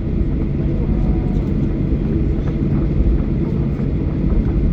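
Boeing 737-800's CFM56 jet engines heard inside the passenger cabin: a steady low rumble with a constant hum.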